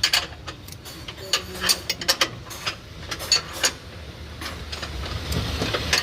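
Metal tools clicking and clinking in irregular sharp taps, like wrench and ratchet work on a car's underbody. A low rumble builds near the end.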